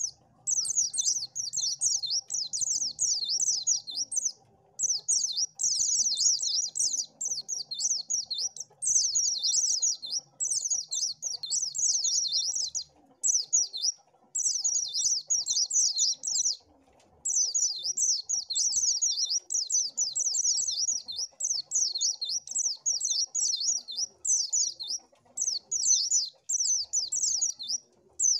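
White-eye (pleci) singing: a fast, high twittering song in long runs of a few seconds each, broken by short pauses.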